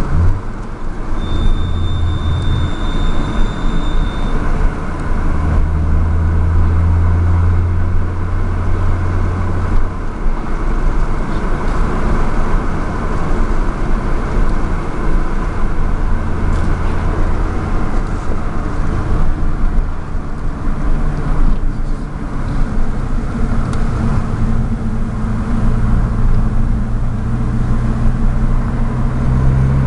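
Hyundai Tiburon running with a steady low engine drone and road-type noise. The drone swells and eases several times, and a thin high whistle sounds for about three seconds near the start. Somewhere in the sound is an unidentified noise that the owner is trying to diagnose.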